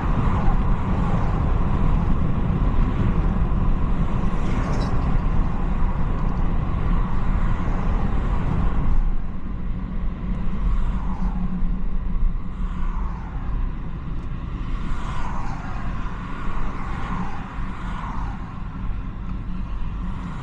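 BMW 330i on the move: steady road and engine noise with a strong low rumble. About nine seconds in it drops noticeably quieter, then short falling whooshes come roughly every two seconds.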